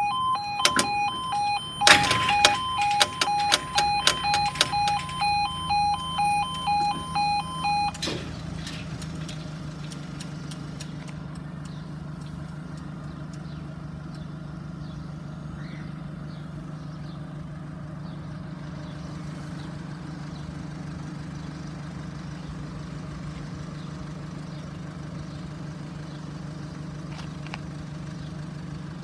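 Level crossing warning alarm sounding in a repeating two-tone pulse, with a run of loud sharp knocks a couple of seconds in; the alarm cuts off about eight seconds in. An engine then idles steadily.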